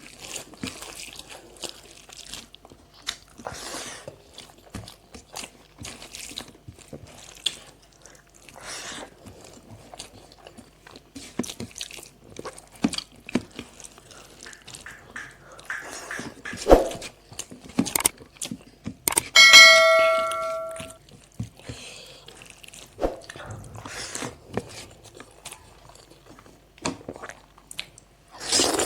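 Close-up eating sounds: scattered small crunches, clicks and chewing throughout. About two-thirds of the way through, a metal dish or utensil is struck and rings once for about a second and a half, the loudest sound here.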